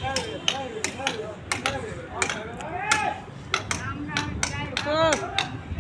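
Repeated sharp knocks like hammer blows, irregular at about two or three a second, with people talking in the background.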